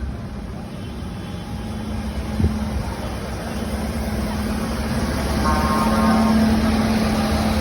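Tractor engine running with a steady hum, growing louder to a peak about six seconds in, as it comes closer. A single sharp knock about two and a half seconds in.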